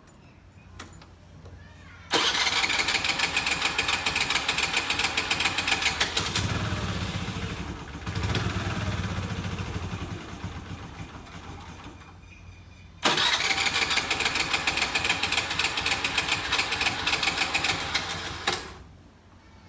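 Scooter engine being cranked by its electric starter in two long attempts, about ten seconds and then about five, with a short pause between, without starting: a scooter that won't start after sitting. Partway through the first attempt a deeper hum joins the cranking.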